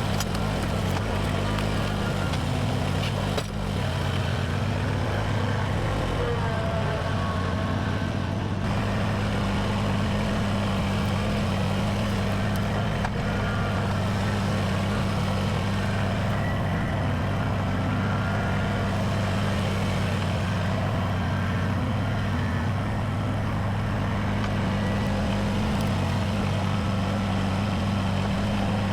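Engine running steadily at a constant speed, a low, even hum with no revving.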